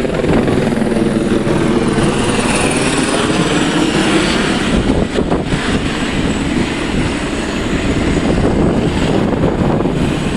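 Tour helicopter's rotor and engine running loud close by, the pitch sliding slightly as it moves.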